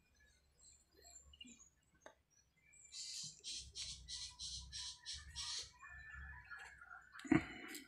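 A bird chirping a quick, even run of about nine high calls, then a single sharp knock near the end.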